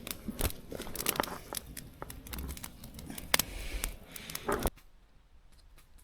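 Campfire crackling, with irregular sharp snaps over a steady rustle, stopping abruptly near the end.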